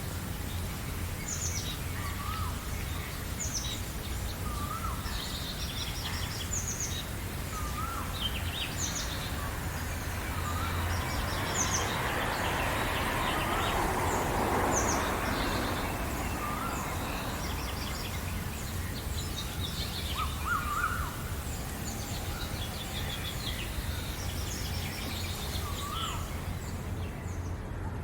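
Several birds singing in a morning chorus: one bird repeats a short curved whistle every two to three seconds while others add quick high chirps. A rushing noise swells and fades in the middle, over a steady low hum.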